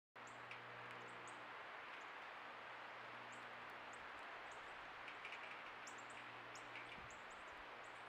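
Small wild birds chirping, many short high chirps scattered throughout, faint over the steady hiss of a trail camera's microphone with a low steady hum underneath.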